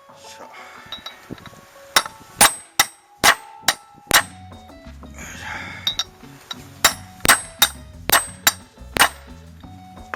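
Hammer striking a 27 mm socket used as a drift to drive a new wheel bearing into a motorcycle's front hub: two runs of about six sharp metallic clangs with a brief ring. The first run starts about two seconds in and the second about seven seconds in. The new bearing is a tight fit and is still short of fully seated.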